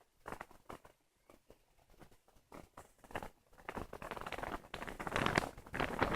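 Wind gusting and buffeting the microphone in short, broken puffs, then building into a louder, more continuous rush from about three and a half seconds in.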